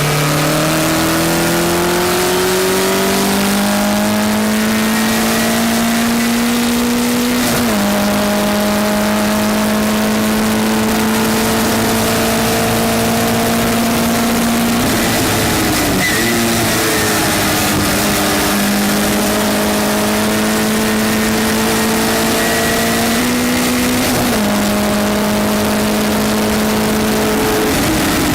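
Westfield race car's engine heard from onboard under hard acceleration, its pitch climbing steadily and dropping at upshifts about eight seconds in and again about twenty-four seconds in. Around the middle the revs dip and waver as the driver lifts and changes down, and the pitch falls again near the end; a steady rush of wind and road noise runs underneath.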